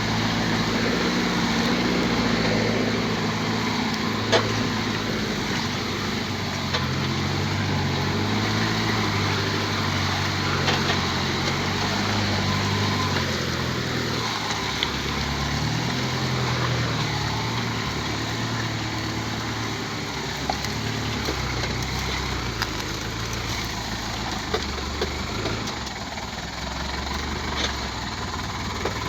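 Truck engine running, its pitch rising and falling as the revs change, with a few brief clicks over it.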